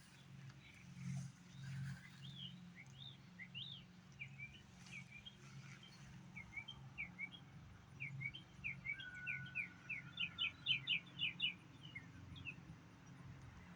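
A small songbird singing: a string of short, sharp chirps that builds into a quick, louder run of repeated notes near the end, over a low steady hum.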